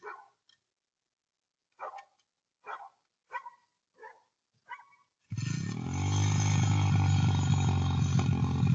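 A dog barks about six times, roughly one bark every three quarters of a second. About five seconds in, a dirt bike engine cuts in suddenly and runs loud and steady to the end.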